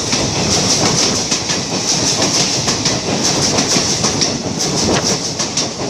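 Passenger coaches of an express train running through at speed, wheels clattering over the rail joints in a steady stream of clicks.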